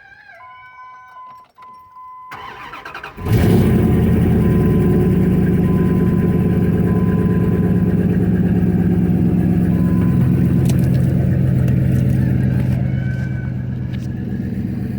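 Dodge Ram pickup's engine being cold-started: a steady beep, then about a second of cranking before it catches with a loud burst and runs at a fast idle. The idle drops lower and quieter near the end.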